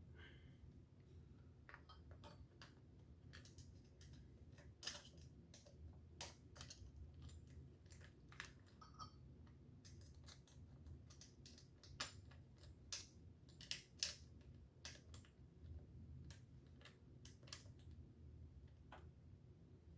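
Quiet, irregular light clicks and taps of hand tools and parts being handled during minibike work, a few sharper ones past the middle, over a faint steady low hum.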